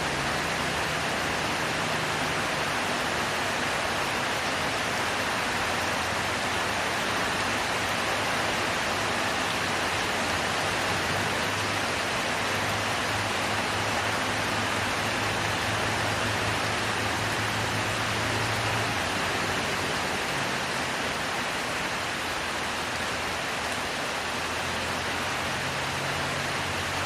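Heavy rain falling steadily, an even hiss of downpour. A faint low hum comes and goes underneath.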